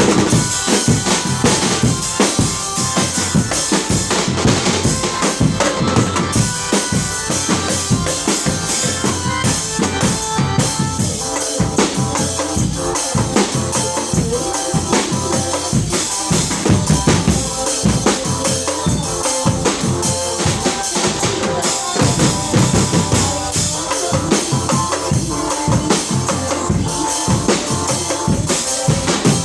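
Loud live percussion-led music: bass drum and snare strokes keep a steady driving beat without pause, with short melodic notes sounding above it.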